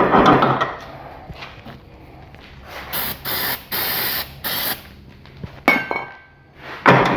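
A 440 jet ski's two-stroke twin is cranked over by its starter, which stops after a moment; then four short hisses of an aerosol spray, starting spray shot in to help the engine fire. A sharp metallic clink follows, and the starter begins cranking the engine again near the end.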